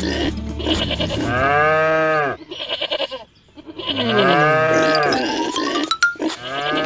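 Two drawn-out farm-animal calls in the manner of a bleat, each rising and then falling in pitch, dubbed in as sound effects over background music. A rising whistle-like glide and a sharp click come near the end.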